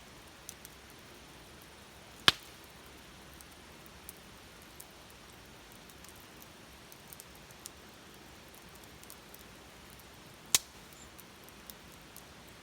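Open wood fire crackling: faint scattered crackles over a low steady hiss, with two sharp loud pops, one about two seconds in and one near the end.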